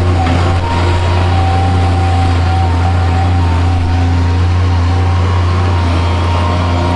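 A small digger's engine running steadily as a low hum, with a faint higher whine over it.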